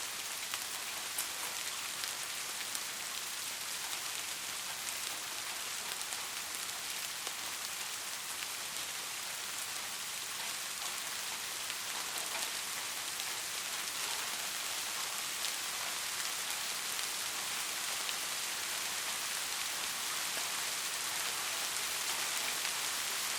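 Steady rain falling: a dense, even hiss of drops with faint individual drop ticks.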